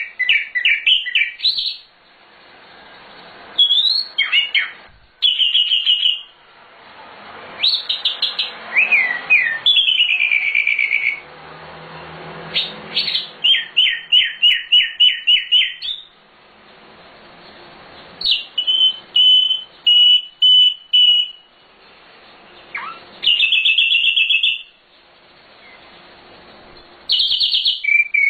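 Sikatan londo flycatcher singing a loud, varied song in separate phrases: quick runs of repeated notes, downslurred whistles and short trills, with brief pauses between phrases.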